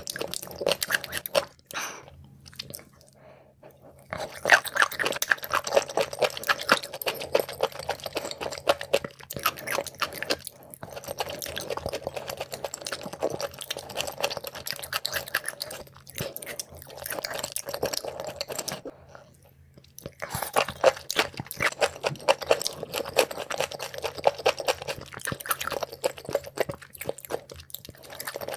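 Close-miked wet chewing of raw liver, dense sticky mouth clicks and squelches, pausing briefly twice.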